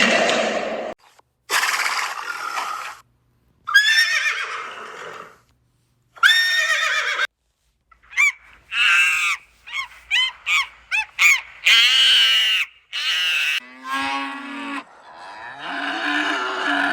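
A series of separate animal calls, about a dozen, with a quick run of short calls about halfway through and a lower-pitched call near the end.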